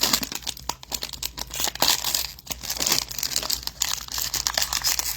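Packaging of a Prestige football-card hanger box crinkling and tearing as it is worked open by hand, a continuous irregular rustle of small crackles and rips.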